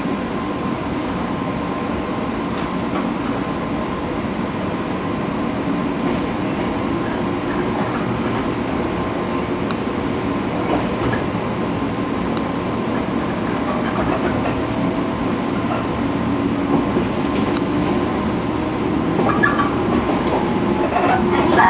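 Running noise of a JR West 115 series electric train heard inside its cab: a steady rumble with a faint steady tone. It grows a little louder over the last few seconds, with a few clicks of wheels over rail joints near the end.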